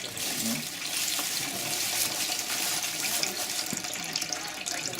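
Fresh apple cider running in a steady stream from a cider press into a container.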